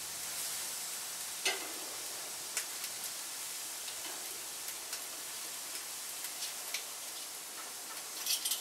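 Steak and mango sizzling on a hot grill: a steady hiss with occasional sharp pops, a few of them close together near the end.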